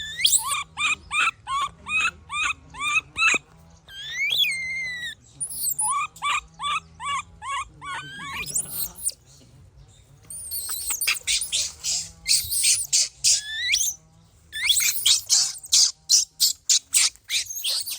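Baby monkey calling in runs of short, high-pitched cries, several a second, with brief pauses between runs. From about ten seconds in the calls turn into shriller squeals.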